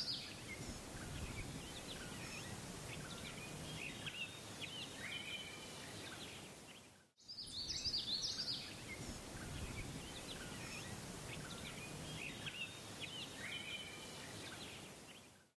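Faint birdsong ambience: several birds chirping and whistling over a soft background hiss. The same stretch of recording plays twice, with a brief break about seven seconds in.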